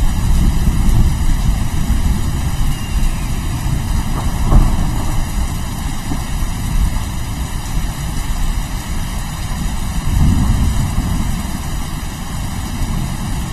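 Thunder rumbling over steady rain, the low rumble swelling and fading several times, most strongly near the start, about four seconds in and around ten seconds.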